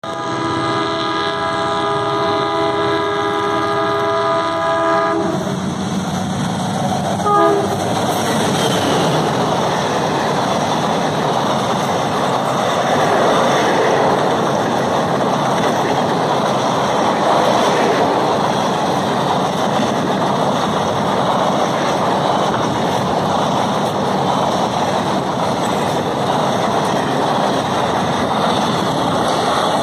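Alco diesel locomotive sounding its multi-tone horn for about five seconds as it approaches, then the locomotive and a long rake of passenger coaches passing at speed: a steady, loud rush of wheels on rails with clickety-clack.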